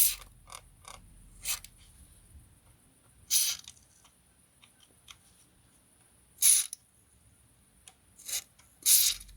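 Short, sharp clicks and scrapes of hand work on metal screws and plastic parts, coming every second or two, with fainter ticks between them.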